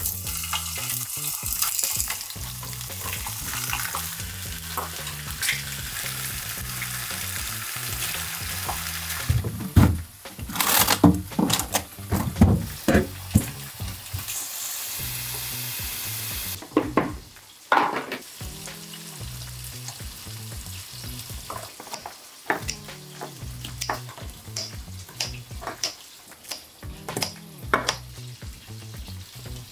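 Boneless chicken sizzling as it fries in a pan, a steady hiss for the first several seconds. About ten seconds in comes a run of knocks and clatter as a freezer drawer is opened and its contents handled. The sizzle then returns briefly, and near the end come sharp snips of kitchen scissors cutting kimchi in a glass bowl.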